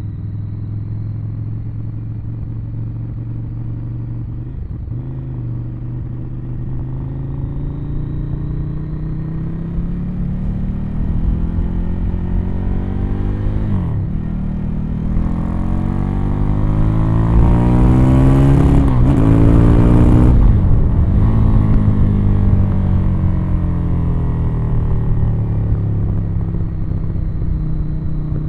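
Ducati Monster 1100 EVO's L-twin engine running through its original exhaust while the bike is ridden. It holds a steady low note at first, then pulls harder from about a third of the way in, its pitch rising and dropping sharply several times. It is loudest a little past the middle.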